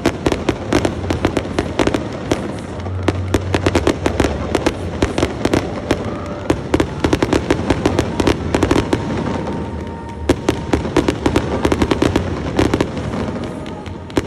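Aerial fireworks display going off in a dense, rapid barrage of bangs and crackles, easing briefly about two seconds in and again about ten seconds in.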